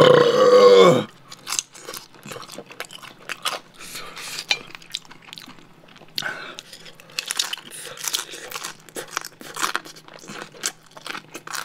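Close-miked chewing of a pan-fried dumpling, a quick irregular string of small crunches and clicks as the toasted skin is bitten and chewed.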